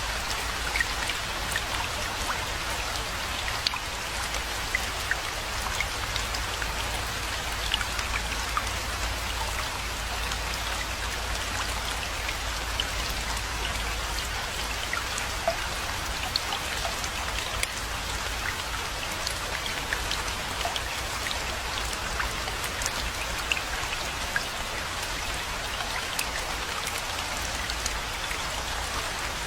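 Steady rainfall with many individual drops pattering and ticking close by.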